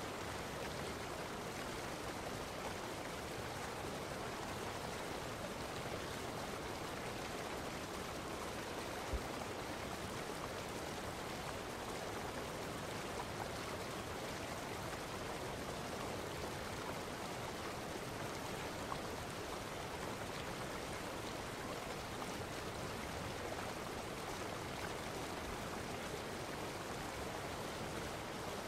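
Steady rushing of running water, even and unchanging, with one faint click about nine seconds in.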